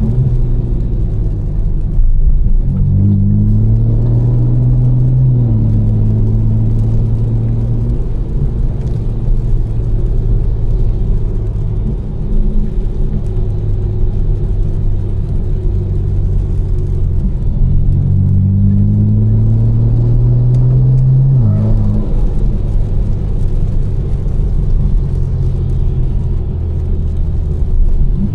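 Tuned 800 hp BMW M4's twin-turbo straight-six, with catless downpipes and a Fi exhaust, pulling the car down the road. Twice the engine note climbs steadily under acceleration and then drops sharply at the top: once a few seconds in and again about two-thirds of the way through. In between it runs at a steady cruise.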